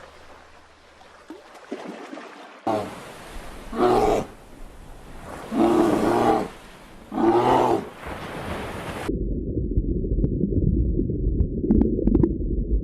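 Three loud, drawn-out animal calls, each lasting about a second, followed by a dense low rumble.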